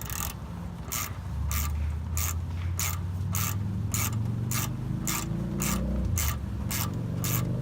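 A 1/4-inch drive Stanley ratchet worked back and forth to tighten a shock absorber's mounting nut, with a short burst of pawl clicking on each return stroke, about two strokes a second.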